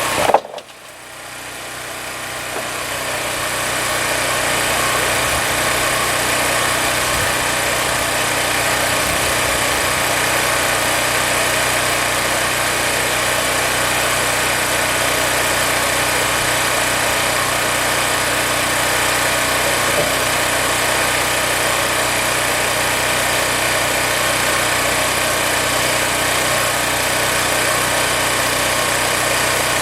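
A shop machine running steadily at one even speed, after a short knock at the start and a build-up over the first few seconds.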